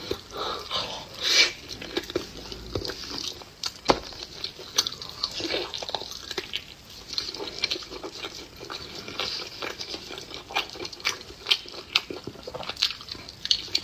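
A person chewing and biting food, with irregular smacks and crunches.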